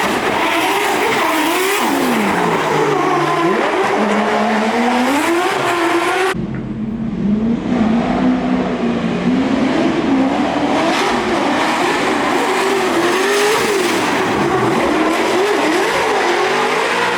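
High-powered drift car engines revving hard, their pitch swinging up and down with the throttle as the cars slide, over a steady hiss of spinning tyres. The sound changes abruptly about six seconds in, as another pass of revving takes over.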